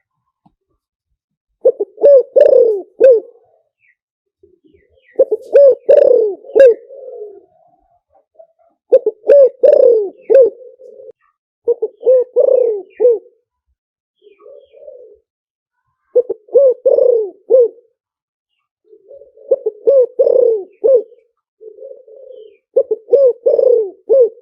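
Spotted dove cooing in its three-note 'kuk' phrase: seven loud, clear phrases of low coos, repeating about every three to four seconds, with a few softer coos between them.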